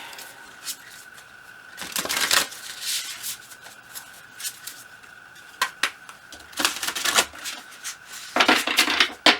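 A tarot deck being shuffled by hand: several short bursts of cards rubbing and slapping together, with small taps between them.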